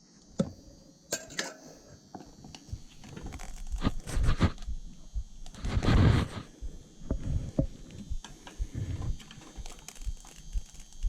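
Irregular knocks, clicks and clatter of objects being handled, with a louder rustling scrape about six seconds in.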